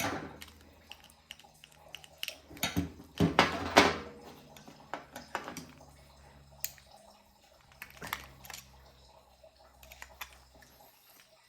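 Scattered light clicks and taps of hand tools on the metal parts of a small-engine carburetor being taken apart, with a cluster of louder knocks about three to four seconds in.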